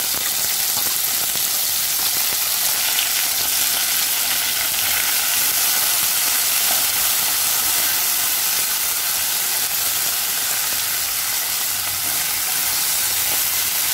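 Sliced bitter gourd sizzling in hot oil in a nonstick kadai as it is stirred with a spatula: a steady, even frying hiss.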